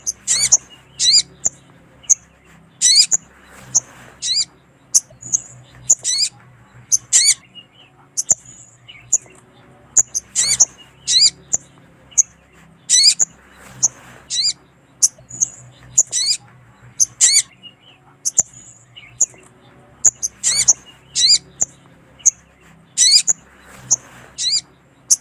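Sogon (little spiderhunter) calling over and over: short, sharp, high chirps in quick clusters, repeating every second or so. It is a lure recording of a female sogon calling to a male.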